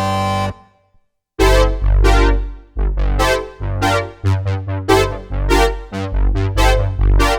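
Roland JX-8P analog polyphonic synthesizer: a held chord from one factory patch cuts off about half a second in, and after a short pause a new patch is played. Its notes are struck and quickly decaying, with low bass notes under chords in a steady rhythm.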